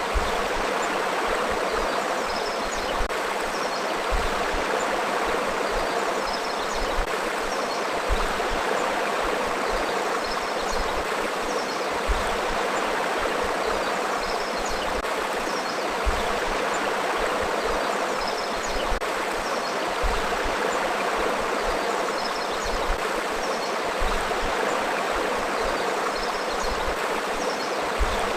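Forest river flowing: a steady rush of running water, with brief louder low gulps about every four seconds and faint high chirps now and then.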